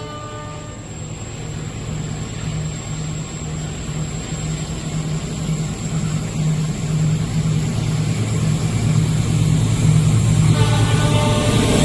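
Approaching train: a low rumble that grows steadily louder, with the train horn sounding again near the end.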